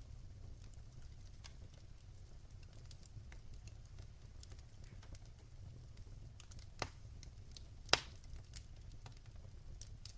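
Wood fire in a fireplace crackling softly, with scattered small pops over a low steady rumble and two louder snaps a little past the middle.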